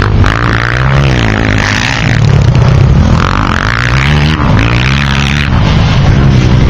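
Motocross motorcycle engines running hard, the pitch climbing and dropping again several times as the throttle is opened and closed.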